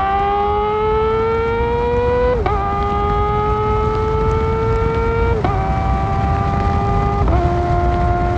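Kawasaki ZX-4R's inline-four through an Akrapovic exhaust, accelerating with the engine note slowly climbing, then three quickshifter upshifts, about two and a half, five and a half and seven seconds in, each a short snap and a sudden drop in pitch. Wind and road noise rumble underneath.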